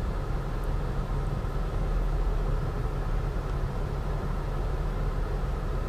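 2003 Mazda Tribute's V6 engine idling steadily with the air conditioning on, heard from inside the cabin as a low, even hum with blower hiss. The idle holds without dropping: after the MAF sensor, IAC valve and throttle body were cleaned, the rough idle that sagged whenever accessories kicked in is largely gone.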